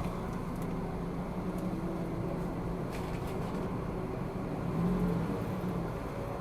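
Car engine running at low speed, heard from inside the cabin, with a low steady hum and a brief gentle rise about five seconds in as the car creeps forward.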